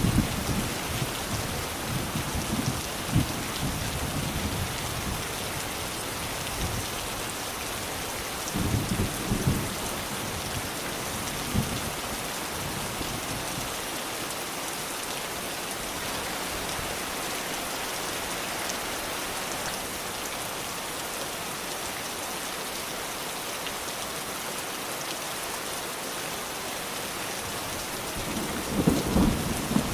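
Steady rain falling, an even hiss, with low rolls of thunder rumbling in the first few seconds, again around nine seconds in, and near the end.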